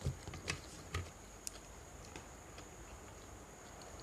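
Quiet eating sounds: a few light clicks and soft knocks in the first second and a half, then near-stillness, over a faint steady high-pitched whine.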